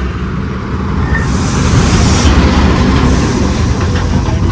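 Truck driving on a rough road: a steady low engine drone with rattling, and a louder rushing hiss for about a second, starting about a second in.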